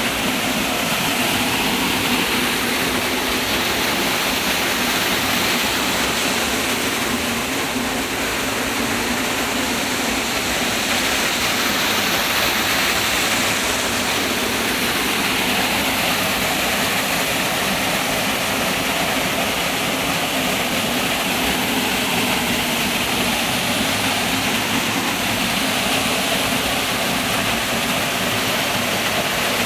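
Waterfall: water falling and rushing with a steady, unbroken noise.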